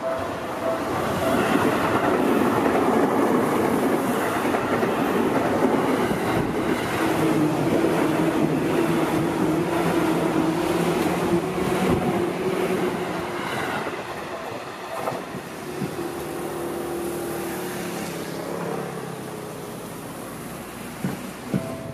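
Electric commuter trains, led by a Seibu 6000-series set, passing close at speed: rolling noise with rapid wheel clacks over rail joints and a steady low tone underneath. The noise eases after about two-thirds of the way through. A level-crossing bell's steady pulsing ding comes back near the end.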